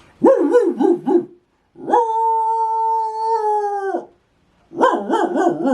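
Recorded dog sound from an electronic animal-sounds toy: a quick run of barks, then one long howl held about two seconds on a steady pitch, then more barks.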